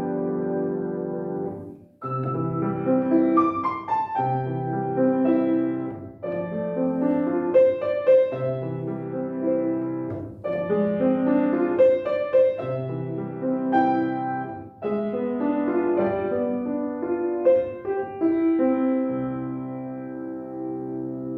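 Piano playing a simple children's piece. A held chord rings away, there is a short break about two seconds in, then phrases of chords over a repeated low bass note, closing on a long held chord near the end.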